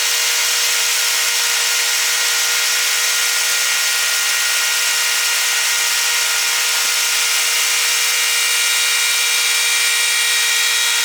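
Milling machine cutting metal under power feed: a steady machining noise with a constant whine that does not change.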